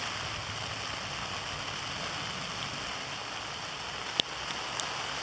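Heavy graupel (soft hail) and sleet pellets falling, a steady dense hiss of pellets pattering on surfaces. One sharp tap of a pellet strike sounds about four seconds in, with a fainter one just after.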